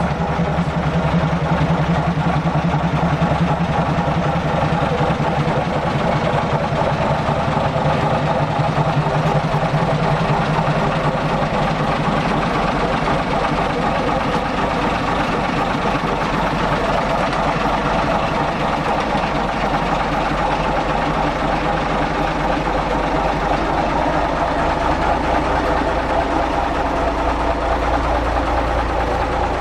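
Heavy diesel engine idling steadily, with a deep rumble that grows louder over the last few seconds.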